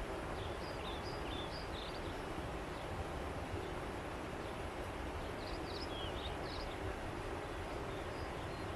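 Steady rush of a flowing river, with small birds chirping briefly in two short bouts over it.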